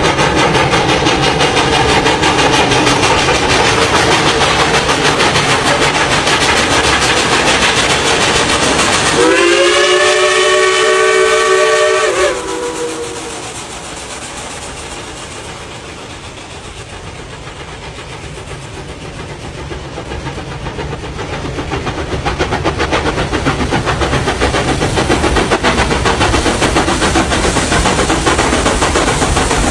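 Steam train running, then a steam whistle sounding a chord of several notes for about three seconds, about nine seconds in. The train noise then falls away and swells again over the last third.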